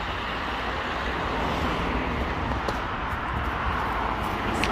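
Steady road traffic noise, a continuous even rumble and hiss that swells slightly and eases off again.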